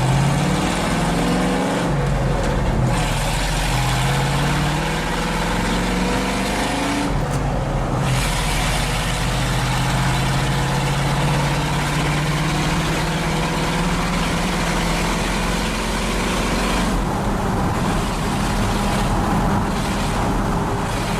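Ford F-150's 351 V8 running with no mufflers, accelerating hard through the gears of its stick-shift transmission: the engine pitch climbs, drops at a shift about two seconds in and again about seven seconds in, then holds a long, slowly rising pull.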